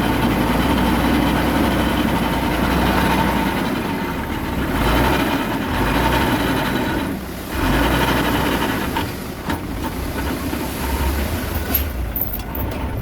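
Komatsu D21A mini bulldozer's diesel engine running steadily as the machine works, dipping briefly in level about halfway through.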